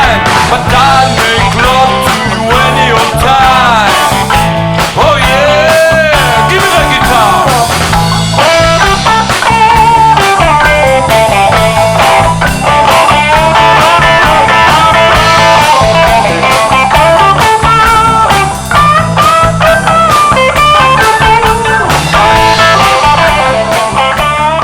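Blues-rock band playing, with a guitar lead line full of bent and sliding notes over a steady bass and drum groove.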